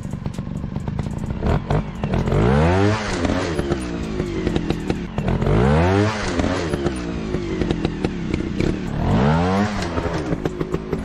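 Dirt bike engine revving up three times, its pitch climbing with each rev, amid steady clattering and scraping.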